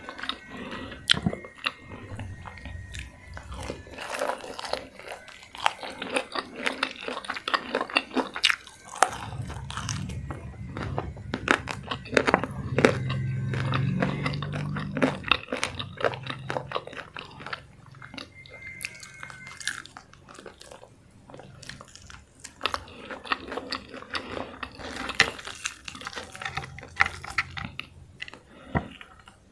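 Close-miked mouth sounds of eating crunchy food, likely crispy fried chicken and raw salad leaves: repeated biting with many sharp crunches and wet chewing. A low steady hum runs under the chewing for several seconds in the middle.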